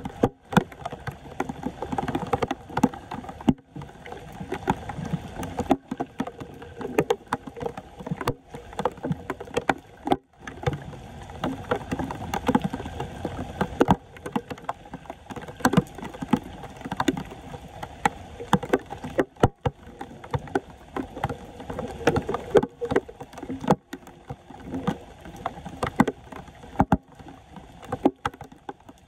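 Floodwater sloshing and splashing at a clogged street drain, with frequent knocks and scrapes of debris being cleared. The sound is broken by several abrupt dropouts.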